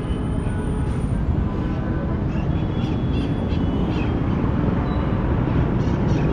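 Steady city street traffic: a continuous low rumble of engines and tyres from passing cars, with a few faint, brief higher-pitched sounds over it.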